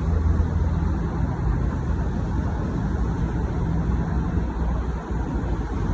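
Transperth B-series electric multiple unit running, a steady low rumble with a low hum.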